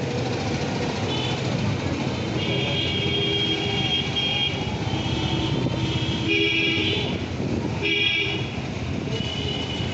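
Vehicle horns honking repeatedly over steady road traffic noise: one long honk of about two seconds, then several shorter honks.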